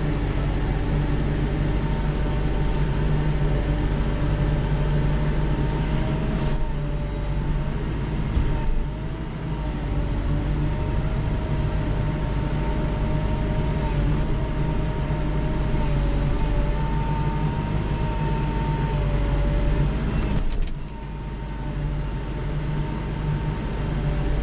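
Kubota L3940 compact tractor's diesel engine running steadily under load, heard from inside the cab, with a thin whine that wavers slightly in pitch. The sound dips briefly twice as the load eases.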